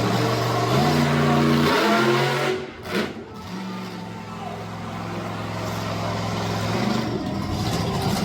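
Monster truck engine revving hard, its pitch climbing in two steps, dropping off sharply for a moment about three seconds in, then running steadily and picking up again near the end.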